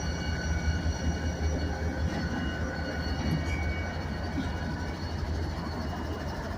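Diesel freight locomotives running past at slow speed, a steady low engine drone with no sharp events.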